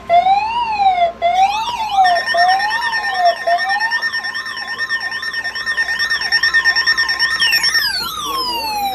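Layered electronic siren tones: a slow rising-and-falling wail that speeds up to a quicker warble about two seconds in, over steady high tones, then all tones glide down together near the end as the sirens wind down.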